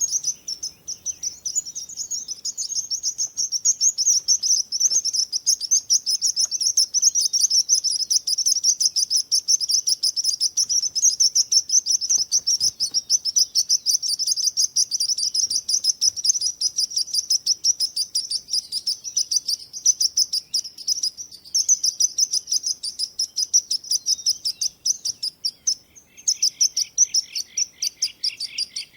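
Songbirds chirping without pause in a dense run of rapid, high notes. Near the end a second, lower rapid trill joins in.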